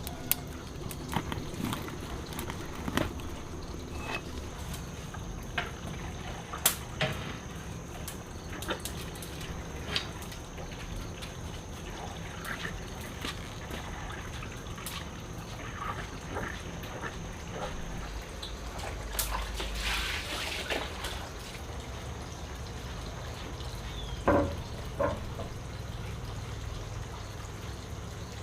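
Water trickling and dripping, with scattered small clicks and knocks throughout.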